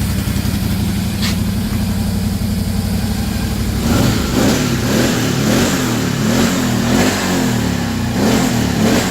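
2018 Can-Am XMR 1000's V-twin engine on its stock factory exhaust, idling steadily, then from about four seconds in revved in a series of short throttle blips, the pitch rising and falling each time.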